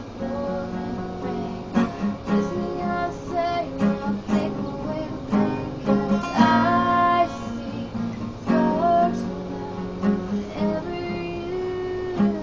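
Acoustic guitar strummed in a steady rhythm, with a girl singing short phrases over it in places.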